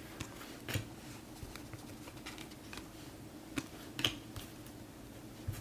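Trading cards being handled and slid off one another, with a few light clicks and rustles over a faint steady hum.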